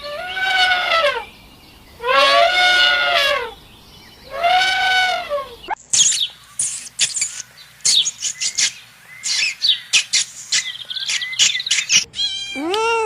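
Three long animal calls, each rising and falling in pitch, about two seconds apart. Then about six seconds of rapid, high-pitched bird chirping, and near the end another drawn-out call begins.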